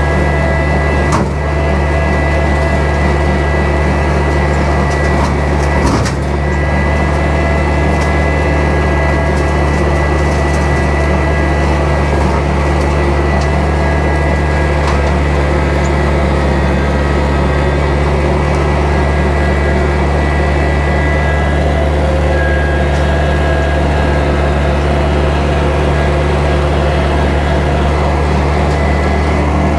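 Kubota tractor's diesel engine running steadily at constant speed, with a faint steady whine above the drone and two brief knocks, about a second in and about six seconds in.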